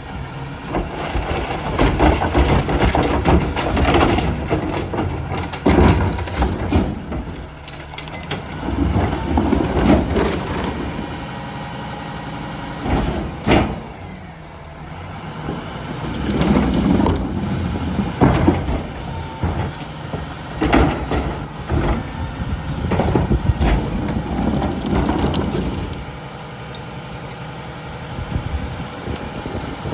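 Mack rear-loader garbage truck at work: its engine and machinery surge louder and ease off again every few seconds, with several sharp bangs and clanks among them.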